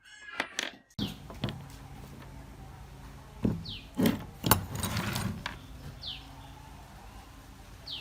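Several sharp clacks and knocks over a steady mechanical hum, with a few short, high, falling chirps between them.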